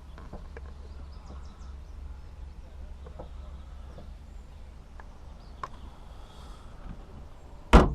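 A few light, scattered taps over a steady low rumble, then one loud knock near the end.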